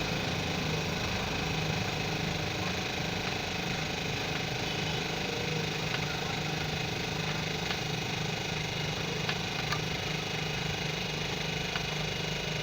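A steady engine hum, with a few faint clicks over it as a die is turned by hand to cut thread on an iron pipe.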